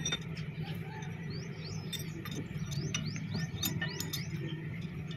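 Birds chirping in quick short calls, each falling in pitch, over a steady low hum.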